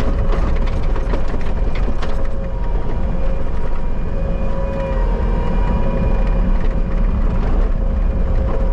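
Bobcat skid steer engine running steadily under load, with a constant whine over the low rumble and a few knocks in the first couple of seconds.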